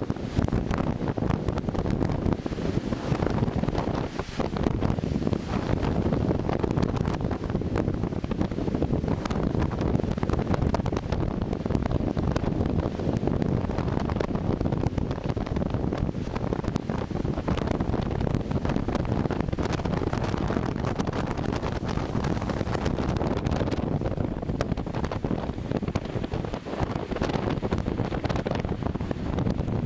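Wind buffeting the microphone, a steady rumbling noise with no breaks.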